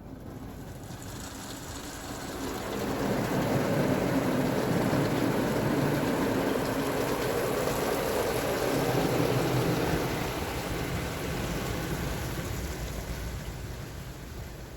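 Istobal MNEX 22 rollover car wash gantry passing over the car, heard from inside the car: a rushing noise of spray or air that swells over the first few seconds, holds and then fades as the machine moves away.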